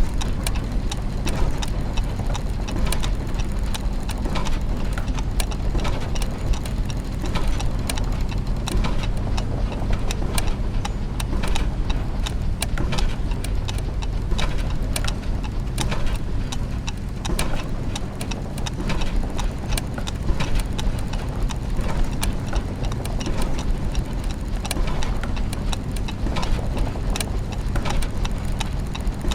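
Layered clockwork and gear mechanisms: many irregular ticks and clicks of clock escapements and meshing gears over a steady low mechanical hum.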